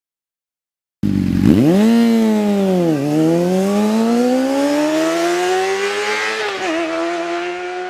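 Motorcycle engine under hard acceleration that starts suddenly about a second in. Its pitch shoots up, falls back, then climbs steadily for several seconds before dropping once more near the end, as the bike shifts up through the gears.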